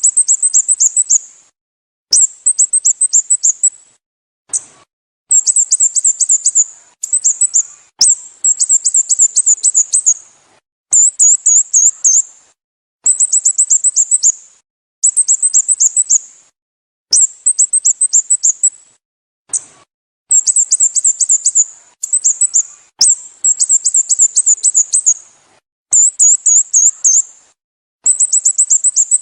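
Sooty-headed bulbul calling: quick bursts of high, downward-slurred chirps, roughly a dozen bursts, each a second or so long with short gaps between. The bursts start and stop abruptly, with faint clicks at their edges, as in a looped recording.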